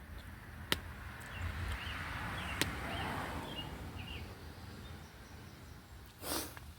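Quiet work sounds: two sharp clicks about a second apart over a faint background, with small bird chirps in the middle and a short rustle near the end.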